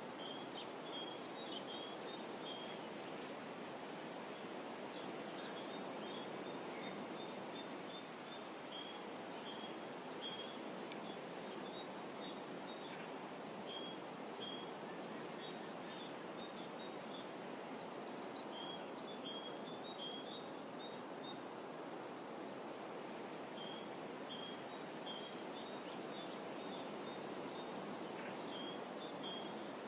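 Small birds chirping over and over in quick high runs, over a steady low rushing background of outdoor ambience.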